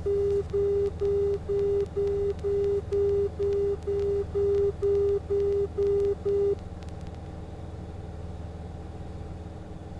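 Outer marker beacon alert in the cockpit audio: a low-pitched tone keyed as even dashes about two a second, fourteen in all, stopping about two-thirds of the way through, marking the aircraft's passage over the outer marker on approach. Underneath, the Cessna 177RG Cardinal's engine drones steadily.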